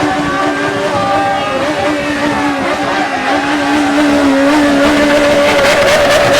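Sports car engine running at high revs, its note held steady and loud with small wavers, and a few sharp crackles near the end.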